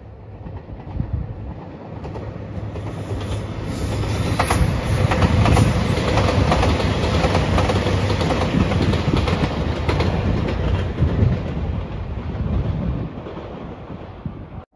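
A four-car JR Shikoku 2700 series diesel multiple unit passing at speed: its diesel engines run under the rumble, and the wheels clack over rail joints. The sound builds as the train approaches, is loudest for several seconds while the cars go by, then fades and cuts off near the end.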